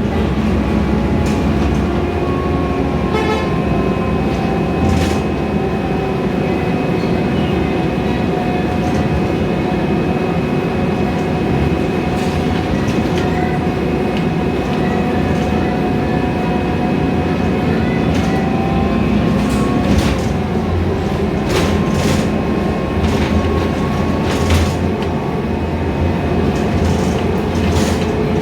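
Cabin noise of a Scania K320iA CNG city bus on the move: steady engine and road rumble with a whine that drifts slowly in pitch, and scattered clicks and rattles from the body.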